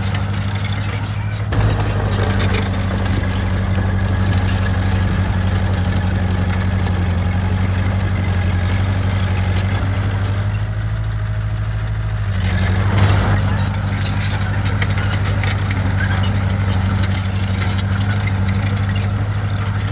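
Diesel engine of heavy earthmoving machinery running steadily with a deep hum. The engine note and clatter swell about a second and a half in, ease off for a couple of seconds past the middle, then pick up again.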